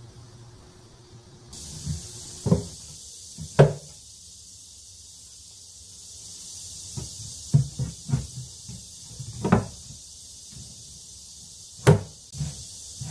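Irregular wooden knocks and clunks from handling the parts of a wooden sliding-door chest during assembly, the loudest about three and a half seconds in and near the end, over a steady hiss.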